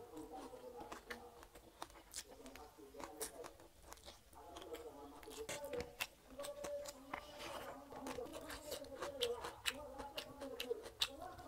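A person eating rice and fish curry by hand: wet chewing and lip-smacking mouth sounds with many quick clicks, and fingers squishing through the rice.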